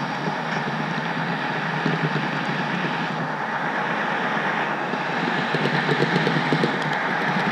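HO-scale model train rolling along the layout's track, heard from a camera riding on the caboose: a steady rolling rumble of wheels on rail, a little louder with fine clicking in the last couple of seconds.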